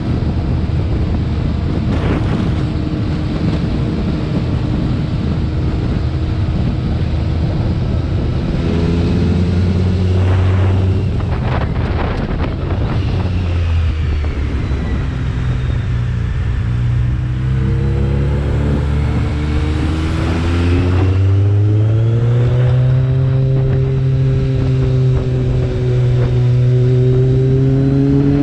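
BMW K1300R's inline-four engine running under way. Its pitch holds low for the first half, rises about two-thirds through as the bike accelerates, levels off, then climbs again near the end.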